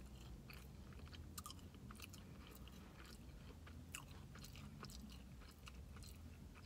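Faint chewing of fries: irregular small mouth clicks of someone eating, over a steady low hum.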